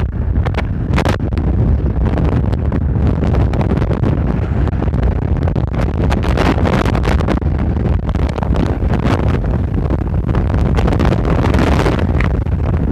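Strong mistral wind buffeting the microphone: a loud, continuous low rumble with rough gusts flaring up throughout.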